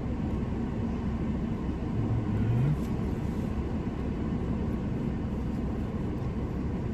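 Steady low rumble of a car's engine and cabin, with a short low hum about two seconds in that rises in pitch at its end.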